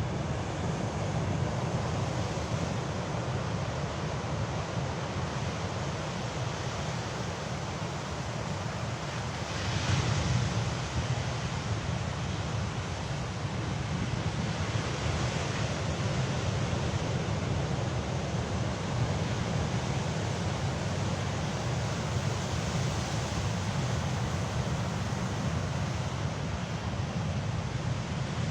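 Sea waves washing onto the shore in a steady surf, with a wave surging louder about ten seconds in and smaller swells later.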